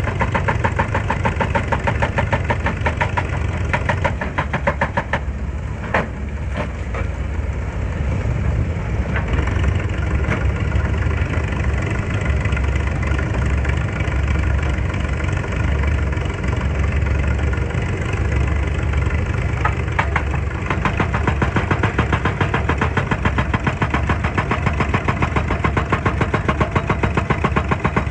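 Excavator's diesel engine running steadily with a fast, even throb, and a few sharp knocks about six seconds in.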